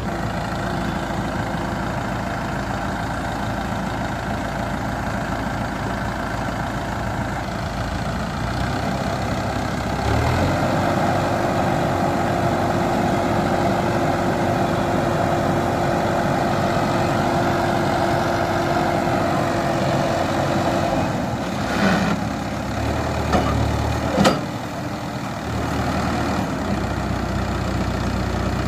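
Farmtrac tractor's diesel engine running steadily. About ten seconds in it steps up to a louder, higher steady speed, holds it for about ten seconds, then drops back, with a few sharp knocks as it settles.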